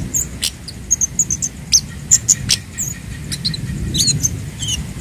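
Kemade bird giving rapid, irregular high chirps and sharp ticks, a dozen or more short notes in quick succession, over a low steady rumble.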